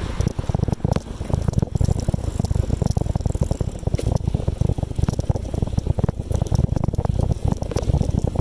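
Bicycle being ridden, with a continuous rattle of the bike's parts over the road surface and a heavy low rumble of road and wind noise on the microphone.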